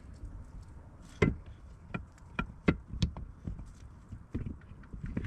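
Irregular knocks and metallic clinks of tools and metal parts being handled, about eight in a few seconds, the sharpest about a second in and near the middle.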